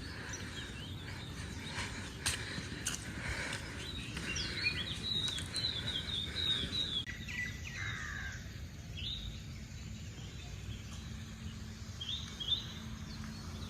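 Birds chirping outdoors in a run of short, quick calls over a steady low background noise. The chirping is busiest about a third of the way in and again near the end.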